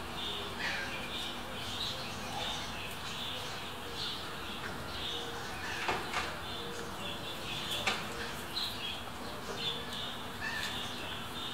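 Birds chirping in many short, high calls over a steady outdoor hiss, with a few sharp clicks about six and eight seconds in.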